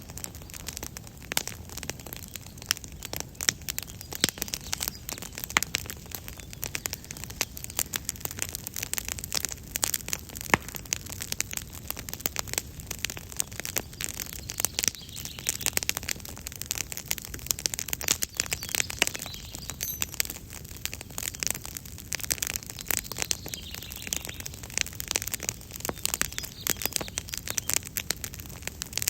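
Wood campfire crackling, with dense, irregular sharp pops and snaps, and faint birdsong behind it.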